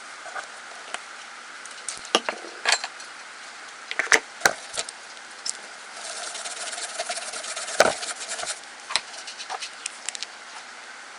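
Nail-art stamping tools being handled: scattered clicks and taps on the stamping plate, with a rasping scrape about six seconds in that ends in a sharp click, as polish is scraped across the plate.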